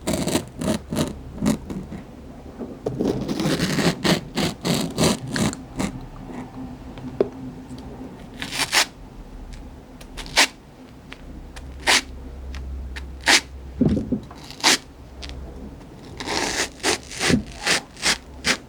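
Close-miked eating of crunchy raw fruit: runs of quick crunching chews, with single sharp crunches or clicks in between.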